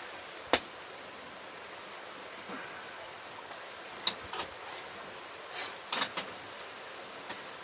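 Streamside ambience: a steady hiss of running stream water under a constant high insect drone, with a few sharp clicks, once about half a second in, around four seconds in, and a cluster around six seconds in.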